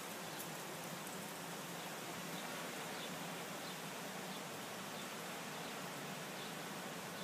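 Steady hiss of dust-storm wind, with faint short high chirps about once a second.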